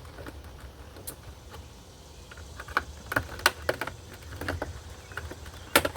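Irregular sharp clicks and light knocks from hands and tools working on a car door's interior trim panel. They are sparse at first, come more often after about three seconds, and the loudest pair of clicks falls near the end.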